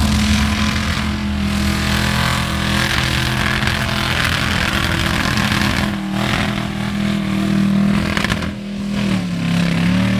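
4x4 mud trucks' engines running hard at high revs, with a dip in pitch about nine seconds in and a rev back up near the end.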